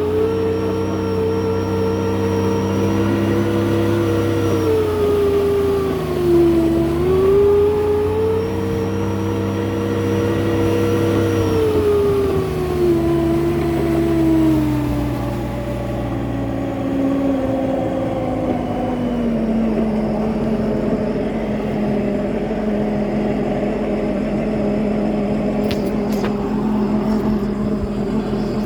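Sea-Doo RXP personal watercraft engine running, with the jet pump impeller rattling. The engine speed dips briefly about six seconds in, then falls to a lower steady idle from about fifteen seconds on.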